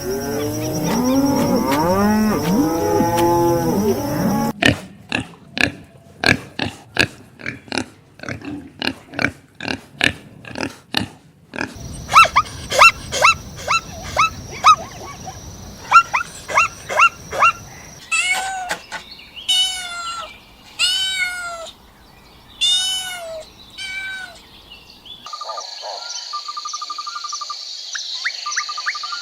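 A run of different farm animal calls in turn. First cattle mooing, low and drawn-out, for about the first four seconds. Then a series of short, sharp repeated calls, and about five longer arching calls roughly a second apart. Near the end, a steady high chirring of insects with a trilling call.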